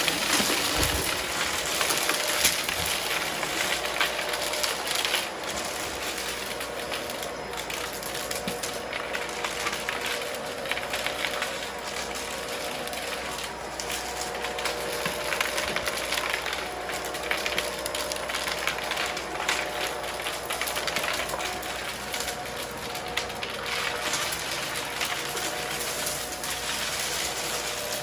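Vacuum cleaner running steadily as it sucks up crunchy debris from a rug, with a constant crackle of particles rattling up through the machine over its motor hum.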